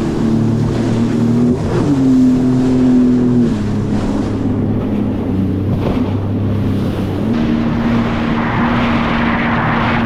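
Sea-Doo GTX 230 jet ski engine running at speed over ocean swells. Its pitch rises about a second and a half in, drops back before the fourth second and climbs again about seven seconds in. A rushing noise builds near the end.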